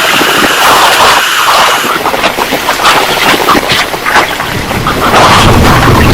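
Torrential rain pouring hard, with wind, and many sharp drop impacts. Near the end a low rumble of thunder swells up.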